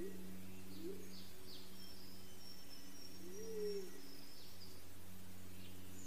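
Forest birds calling: short, low rising hoots, one right at the start and another about a second in, then a longer arching hoot about three and a half seconds in. Thin high whistles and a few quick falling chirps sound over a steady low hum.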